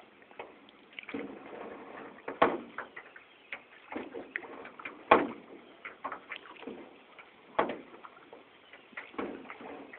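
Paddles working a small rowboat through floodwater: sharp wooden knocks against the hull every two to three seconds, with lighter taps and splashes between.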